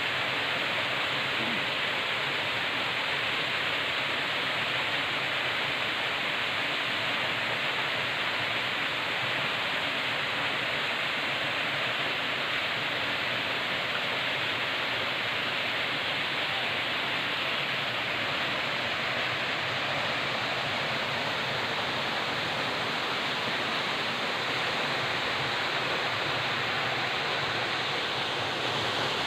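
Forest river water rushing over rocks, a steady even rush.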